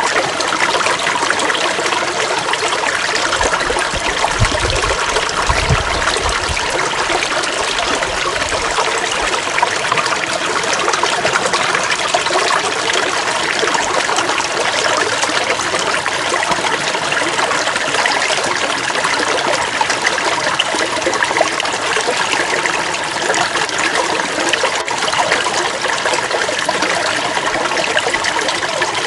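Water flowing and trickling, a steady rushing stream. A few low rumbles come between about three and nine seconds in.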